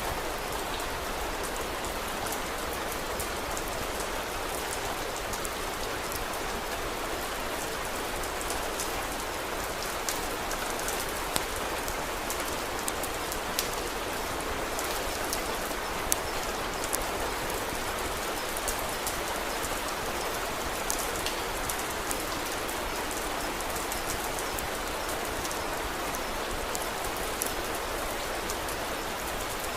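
Steady rain falling, a constant even hiss, with scattered sharp crackles and pops from a wood fire burning in a fireplace.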